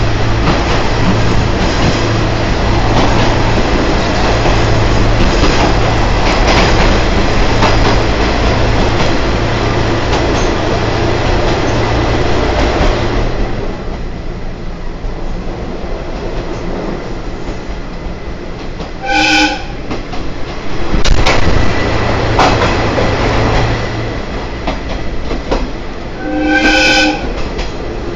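Open-air trolley train running along the line with loud wheel and track noise, which eases off about halfway through. Then the train's horn sounds twice, two short blasts about seven seconds apart, the second slightly longer.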